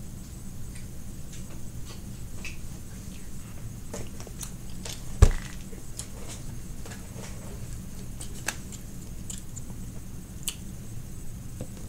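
Person chewing sushi close to the microphone, with scattered small clicks and one sharp knock about five seconds in. Near the end a plastic fork clicks against the plastic sushi tray.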